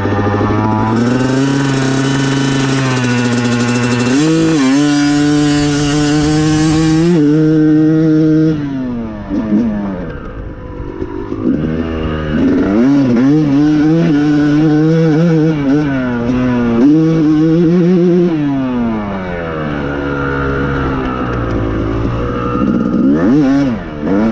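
Yamaha YZ250 two-stroke motocross bike being ridden hard, the engine revving up, holding, and dropping in pitch as it goes through the gears, backing off twice and picking up again.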